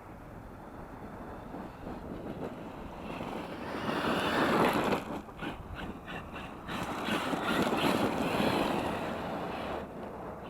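Wind buffeting the microphone in a low rumble, swelling in two gusts: a short one about four seconds in and a longer one from about seven to nine seconds.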